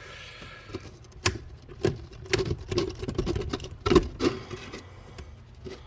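Pop rivet gun and rivet being worked in a plastic leaf blower nozzle: irregular clicks, scrapes and knocks, thickest between about two and four seconds in, with the loudest knock near four seconds.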